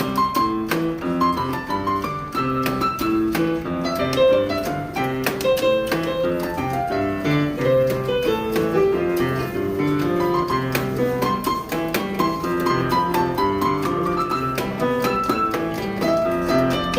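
Piano music, a busy run of notes with a moving melody over a steady accompaniment.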